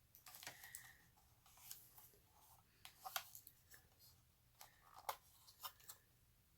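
Faint, scattered clicks and light taps of plastic being handled as a Roomba's dust bin is pulled out and opened.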